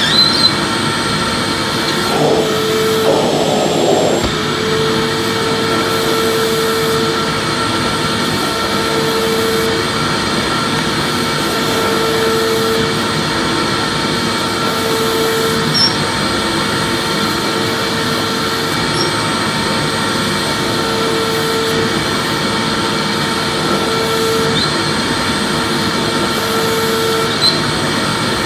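Vacuum cleaner running steadily: a continuous rush of motor and air with a steady whine and a lower tone that comes and goes every two to three seconds. A few faint clicks sit on top.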